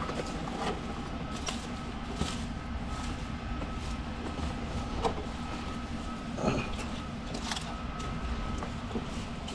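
Scattered light knocks and clicks of the outdoor unit's metal panels being handled and lifted, over a steady hum with a faint high whine.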